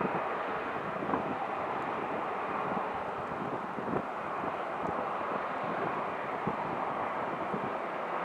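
Steady rush of airliner jet engines as a plane taxis, with wind buffeting the microphone.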